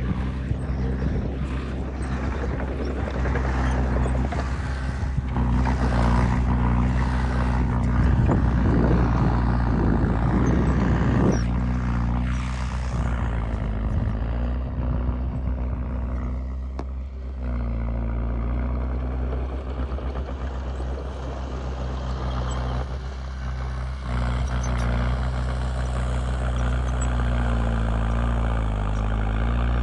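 Heavy diesel engine of earthmoving machinery running steadily under varying load, with a louder rough grinding stretch about a third of the way in.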